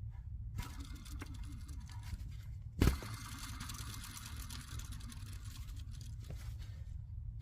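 Nissan Murano Z51 engine running at idle, heard faintly as a steady low rumble, with the accessory drive belt turning its idler and tensioner pulleys, whose bearings are whistling. A short knock comes about three seconds in.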